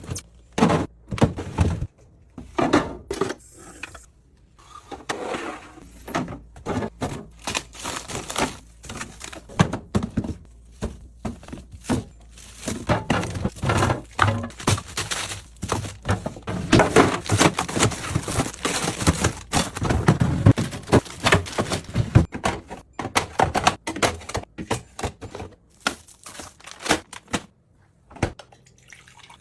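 Groceries being handled and put away in a fridge: containers and bottles knocked and set down on shelves, with packaging crinkling, in an irregular run of thuds, clicks and clinks.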